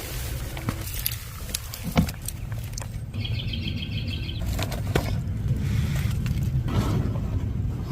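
A bird sings a short, rapid trill of evenly repeated high notes about three seconds in, over a steady low rumble and scattered knocks and rustles of handling and moving about.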